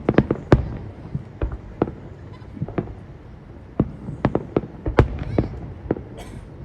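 Fireworks going off: a quick cluster of sharp bangs at the start, then irregular single bangs, with a brief hissing crackle near the end.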